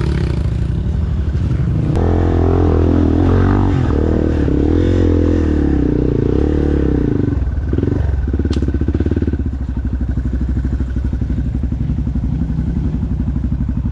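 Dirt bike engine running hard on a trail, its revs working up and down. It is louder under throttle in the first half, then settles to a steadier, lower-revving run.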